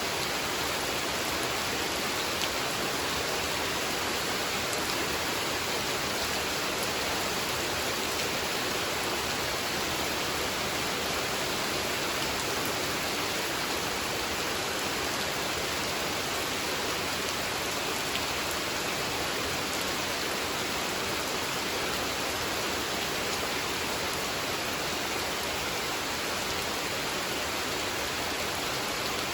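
Steady rain falling on a pond: an even, unbroken hiss with faint scattered drop ticks.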